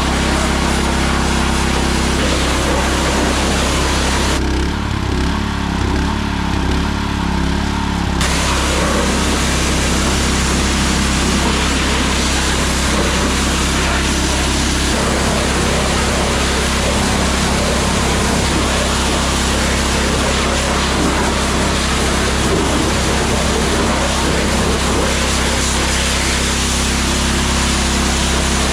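Steam pressure washer running steadily: a constant engine-and-pump hum under the hiss of high-pressure spray. The spray hiss cuts out for a few seconds about four seconds in while the machine keeps running, then comes back.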